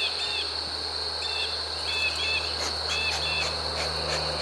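Insects trilling steadily, with short chirps coming in pairs about once a second, over a low steady hum.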